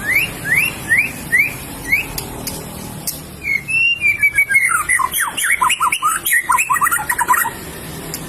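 White-rumped shama (murai batu) singing: five rising whistled notes about half a second apart, then after a short pause a fast, varied run of quick falling and rising notes.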